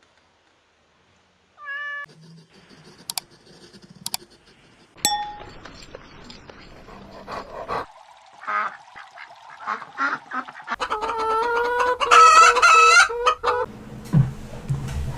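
A string of short domestic animal call clips. Scattered short calls and clicks come first, then a loud, fast run of repeated pitched calls from about eleven seconds in.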